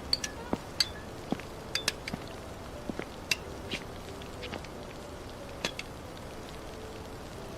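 Light rain: scattered drops tapping irregularly on a nearby surface, some with a short ring, over a steady hiss.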